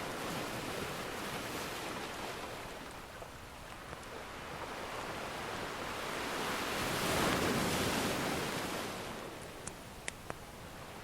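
Ocean surf washing in, one wave swelling to its loudest about two-thirds of the way through and then drawing back. Near the end, a wood fire gives a few sharp crackles.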